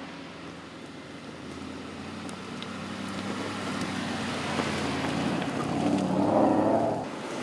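Aston Martin DBX's 4-litre twin-turbocharged V8 running as the SUV drives off-road, growing louder to a peak about six seconds in, then easing briefly near the end.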